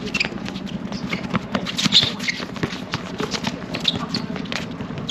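Basketball game in play: a ball bouncing and players' footsteps on the court, with many short taps and knocks and a few brief high-pitched squeaks.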